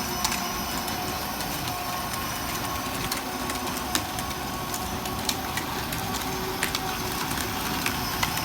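A vehicle driving steadily: a constant motor whine over a low rumble, with scattered clicks and ticks.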